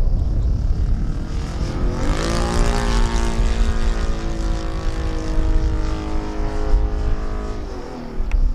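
Saito FG-50 four-stroke petrol engine powering a radio-control aerobatic plane in flight, its propeller note steady. The pitch climbs about two seconds in, holds, and drops away near the end.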